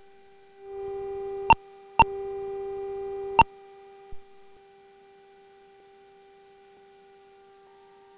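Steady electrical tone with harmonics on the cockpit headset and radio audio feed. It is louder from just under a second in until about three and a half seconds in, broken by three sharp clicks, then carries on faintly.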